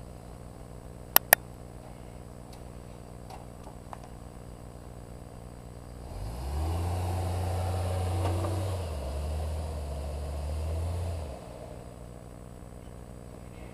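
Hummer H3 engine through a Magnaflow exhaust idling. About six seconds in the engine is given throttle and holds higher revs for about five seconds, easing slightly partway, then drops back to idle. Two sharp clicks about a second in.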